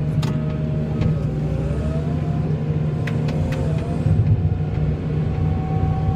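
Engine of a snow-plowing vehicle running steadily, its pitch drifting up and down a little as the engine speed changes, with a few light knocks.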